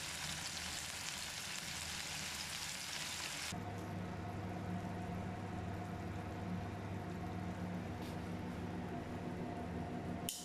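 Chicken tikka pieces sizzling in oil on a flat griddle. About three and a half seconds in, the loud sizzle cuts off suddenly and a steady low hum takes over, with fainter sizzling beneath it; a short click comes near the end.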